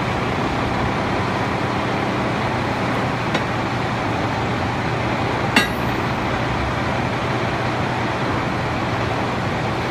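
Case IH MX100 tractor's diesel engine running steadily while working a Motrim MT100 mower. A faint click comes about a third of the way in, and a sharper, louder click about halfway through.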